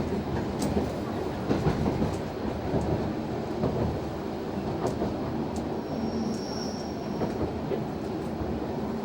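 Noto Railway NT100 diesel railcar running, a steady rumble with scattered clicks from the wheels on the track. A brief thin high tone sounds about six seconds in.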